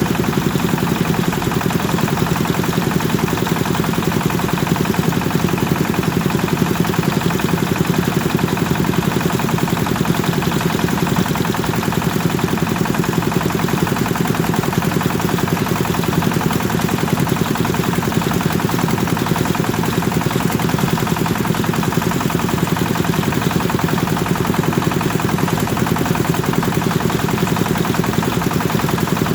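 Kubota engine driving a rice thresher, running steadily with a fast, even engine beat that does not change.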